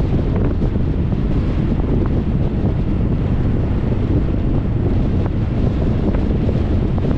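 Steady wind and road noise from a moving 2021 Jeep Compass, with wind buffeting the microphone.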